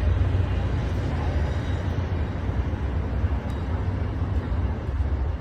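Amtrak train passing over a bridge: a steady low rumble with a wash of wheel and rail noise.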